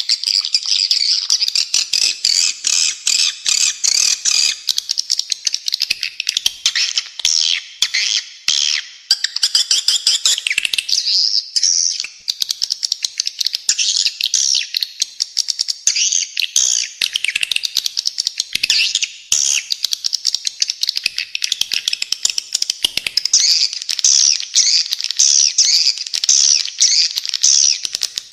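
Spiderhunter and swiftlet calls mixed in a birdsong training recording: rough, densely packed high chirps following one another rapidly, without pause.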